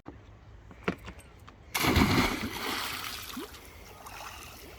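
A sudden loud splash of water about two seconds in, fading away over the next two seconds.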